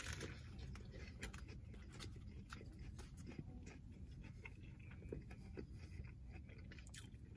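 Faint, close-miked chewing of a mouthful of burger, with soft irregular wet mouth clicks.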